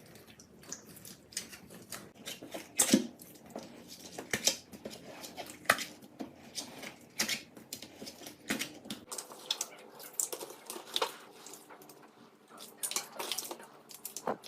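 Slime being squeezed and worked by hand, making irregular sharp clicks and pops of trapped air, several a second.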